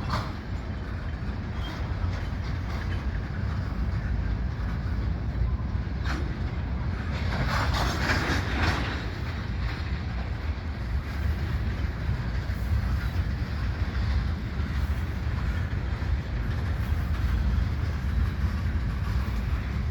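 Freight cars rolling past on the track: a steady low rumble with wheels clacking over the rail joints, briefly louder about eight seconds in.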